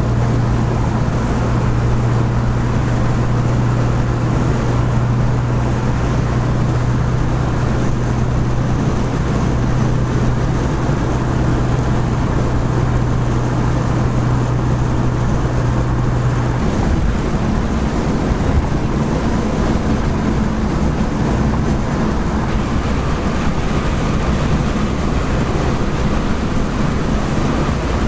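Car driving along: a steady low engine drone over road and wind noise, giving way to a higher, weaker hum about two-thirds of the way through.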